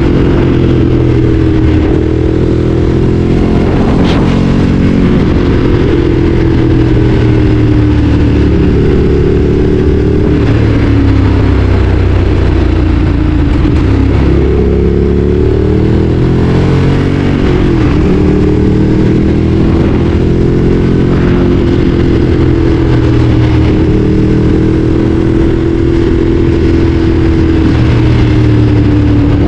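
Ducati Streetfighter 848's L-twin engine running under way, heard from the bike. Its pitch rises and falls gently with the throttle, with two brief dips and quick recoveries around the middle.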